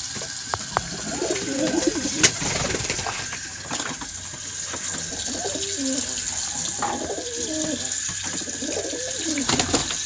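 Domestic pigeons cooing over and over in low, wavering calls, with a few short clicks and a steady hiss behind.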